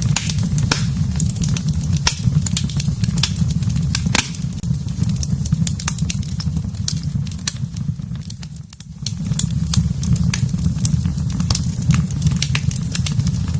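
Fireplace fire crackling, with frequent sharp pops over a steady low roar. The roar drops away briefly about nine seconds in, then returns.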